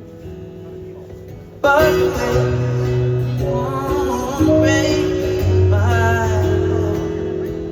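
Live acoustic guitar playing softly, then a voice comes in singing over it about a second and a half in, and the music gets louder.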